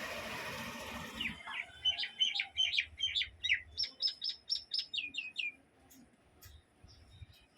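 A myna calling: a harsh hiss for about a second, then a fast run of chirps and whistled notes, ending in about five downward-sliding whistles.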